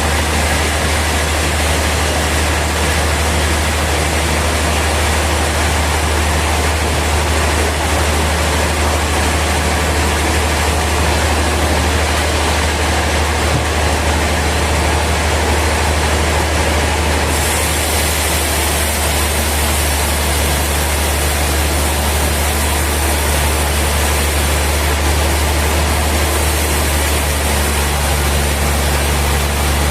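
Sawmill machinery running steadily: a constant deep hum under a dense, even mechanical noise, with a higher hiss that picks up about halfway through.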